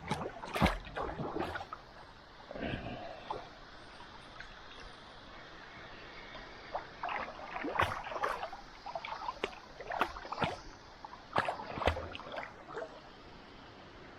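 Paddles dipping and splashing in river water, in irregular clusters of strokes over a steady wash of water.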